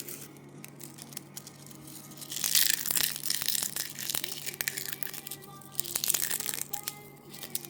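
Crinkling and crunching handling noises with scattered small clicks, louder in two spells, about two and a half and six seconds in.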